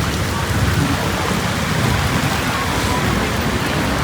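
Steady rain falling, an even hiss with road traffic mixed in.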